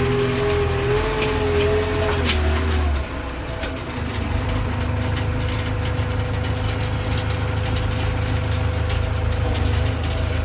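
JCB backhoe loader's diesel engine running, working harder with a higher whining tone for the first three seconds, then settling to a steady idle.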